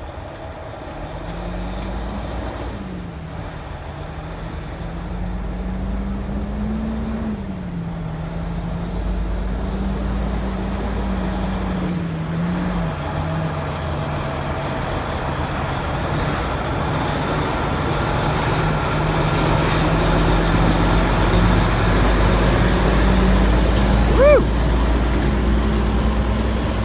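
Heavy truck's diesel engine running steadily at low speed, slowly getting louder as it pulls an oversize load closer, with traffic noise around it. A brief rising squeal near the end.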